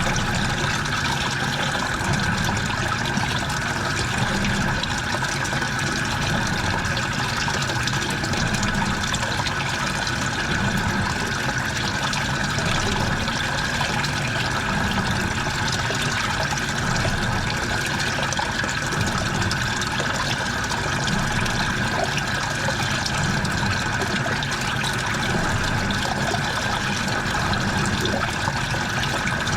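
Washing machine running a wash, with a steady rush of water in the drum over the hum of the machine.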